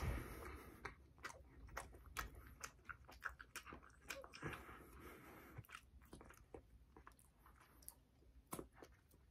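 A mouthful of éclair being chewed close to the microphone: a string of soft wet mouth clicks and smacks, loudest at the start and thinning out, with a sharper smack near the end as fingers are licked.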